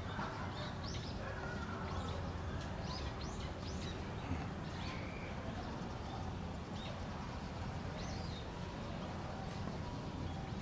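Small birds chirping in short, high calls, thickest in the first few seconds and again briefly later, over a steady low background rumble.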